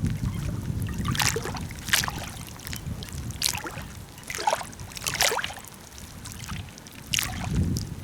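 Water at the bank, with several short splashes spaced a second or so apart over a low rumble of wind on the microphone.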